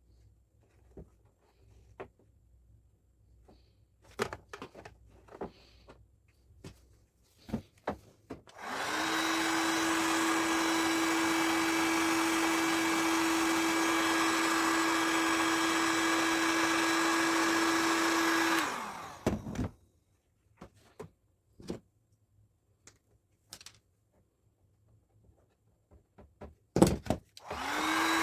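Heat gun, used to weld plastic, switched on about nine seconds in. It runs with a steady blowing hiss and motor hum for about ten seconds, then is switched off and winds down. Scattered light knocks and clicks come before and after it, and the heat gun starts again right at the end.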